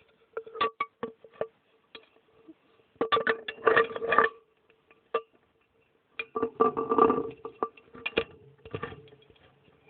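The inside of a running dishwasher, heard from a phone sealed in a glass jar: irregular bursts of water spray and sharp knocks against the jar over a faint steady hum.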